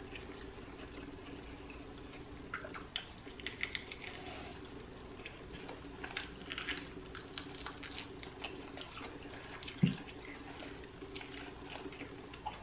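Faint, wet mouth sounds of chewing and sucking on a fried chicken wing: scattered small lip smacks and clicks over a steady low hum. There is a single brief low thud about ten seconds in.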